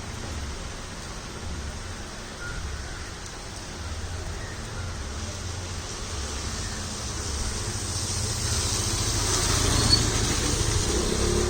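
A vehicle driving past on a wet road: low engine rumble and tyre hiss grow steadily louder, peaking about ten seconds in.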